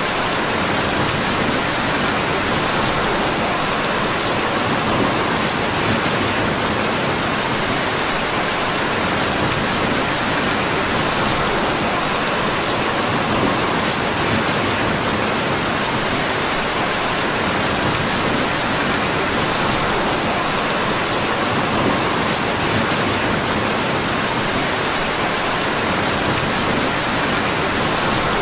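Steady rain: an even, unbroken hiss with a few faint high ticks scattered through it.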